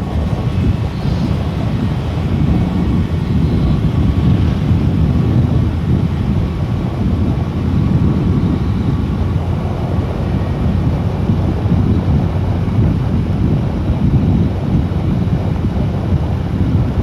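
Steady wind rumble on the microphone of a moving motorcycle, with the engine running underneath.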